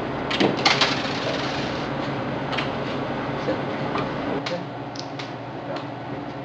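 Small clicks and light knocks of objects being handled, a dense cluster about half a second in, then sparse single clicks, over a steady low hum.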